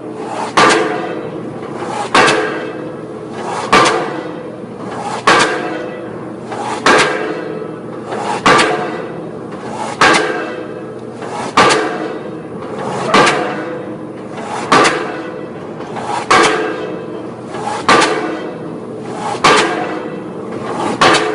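Pile-driving hammer striking an offshore pile in a steady rhythm, one heavy blow about every one and a half seconds. Each blow is a sharp metallic strike that rings and dies away, over a steady machinery hum.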